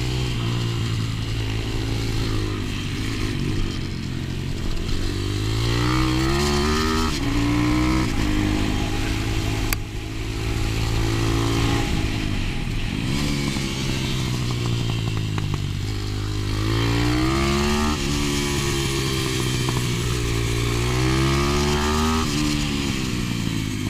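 125 cc pit bike engine being ridden hard, its pitch climbing under throttle and dropping off again several times as the rider accelerates and backs off. A single sharp click about ten seconds in.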